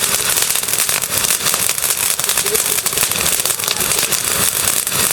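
Firework crackling: a dense, continuous rapid crackle of many small pops.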